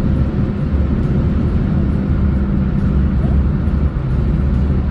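Moving road vehicle: a steady, loud low rumble of engine and tyres on the road, with an even droning hum.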